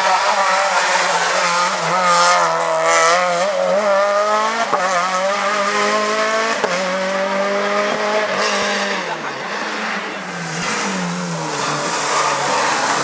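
Rally car engine being driven hard, its pitch climbing and dropping several times with gear changes and lifts off the throttle.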